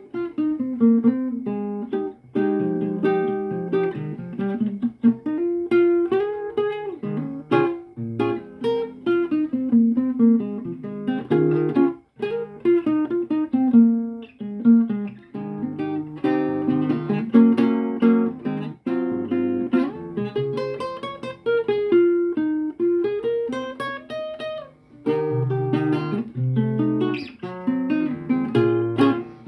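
Acoustic guitar played solo as an improvisation, mixing plucked chords and melody notes that ring and fade.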